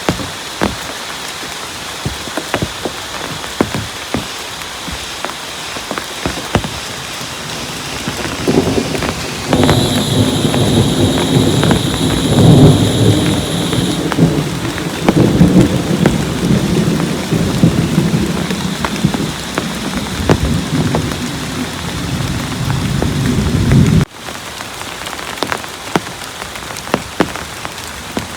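Heavy rain falling steadily, with many sharp drop ticks. About a third of the way in, a long low rumble of thunder swells in, then cuts off suddenly near the end.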